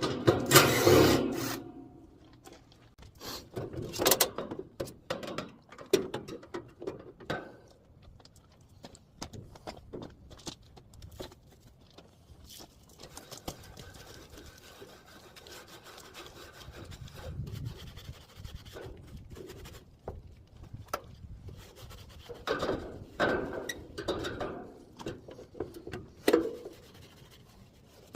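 Hand scrubbing, scraping and knocking while cleaning rodent remains off an air conditioner unit. The strokes are irregular, loudest in the first second or so and again in a cluster near the end, with a quieter stretch of light rubbing in between.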